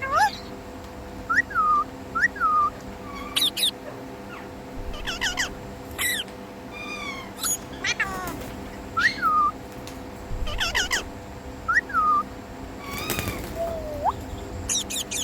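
Indian ringneck parrot calling: a string of short whistled chirps that drop quickly in pitch, about one every second or so, with a few harsher screeches among them.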